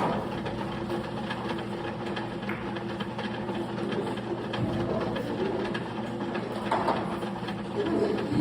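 Billiard hall room noise: a steady hum with scattered small clicks, and a sharper knock about 7 seconds in.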